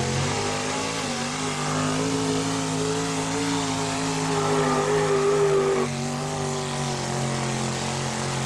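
Modified four-wheel-drive pulling truck's engine running flat out under load as it drags the sled, its note holding fairly steady. The tone changes abruptly about six seconds in.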